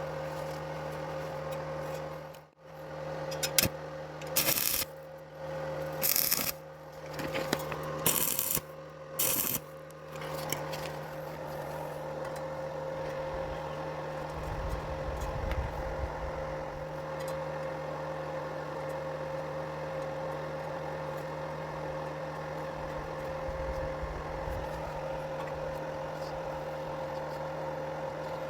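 Stick welding on thin galvanized square tube with 2.5 mm rods at about 75 amps. A few short arc bursts come in the first third, then a long, even run of arc noise, over a steady electrical hum.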